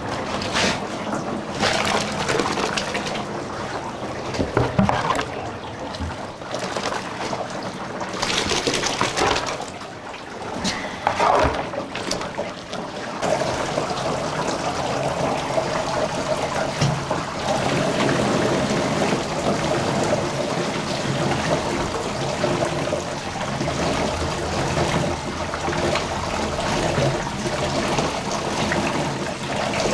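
Tofu curds and whey being ladled out of the cauldron, liquid splashing and trickling, with a few knocks in the first half.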